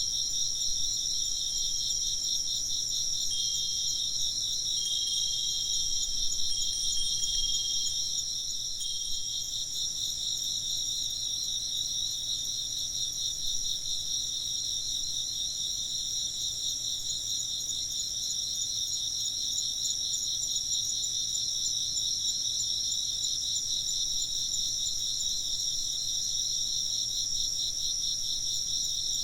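A dense chorus of chirping insects, a steady high, fast-pulsing trill that runs without a break.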